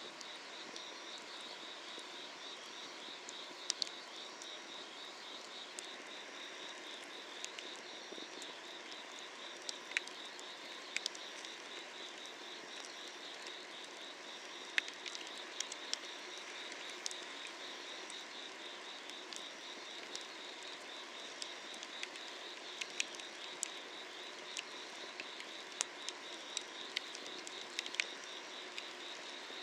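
Wood fire crackling and popping under a cast-iron cauldron, with sharp irregular snaps, over a steady, rapidly pulsing summer-night chorus of insects.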